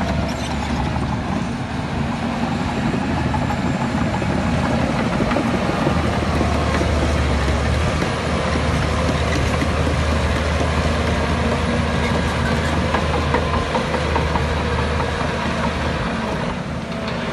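Heavy diesel earthmoving machinery running steadily, a deep engine drone with some mechanical clatter, easing off briefly near the end.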